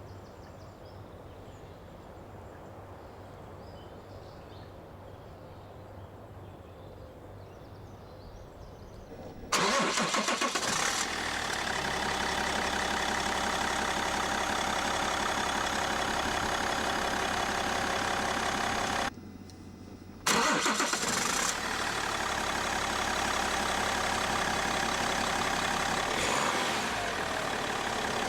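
Low background noise, then the BMW 530d's diesel engine is started: it catches with a sudden loud flare and settles to a steady idle. It falls away briefly and is started again with a second flare, then idles on.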